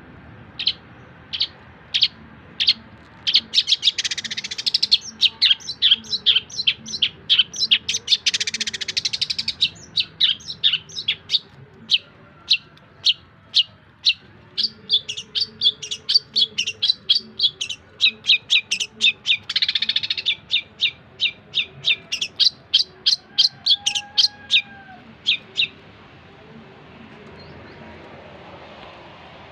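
Long-tailed shrike (cendet) singing: a fast run of short, sharp high chirps, several a second, broken by three buzzy chattering bursts. The song stops a few seconds before the end.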